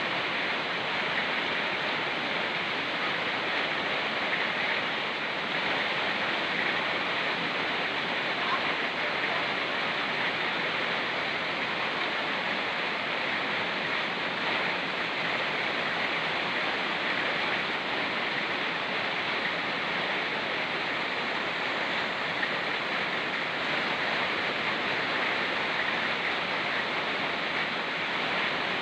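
A fast-flowing mountain river rushing steadily, mixed with rain falling in the forest, as an even hiss with no pauses.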